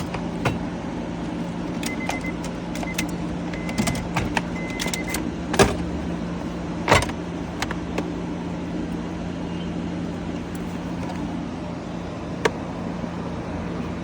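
Scattered clicks and knocks of plastic trim covers and tools being handled, the loudest about halfway through, over a steady low hum.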